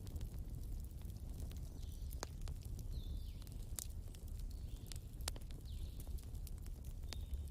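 Wood fire crackling, with irregular sharp pops and snaps over a low steady rumble. Short high chirping calls that fall in pitch recur about once a second.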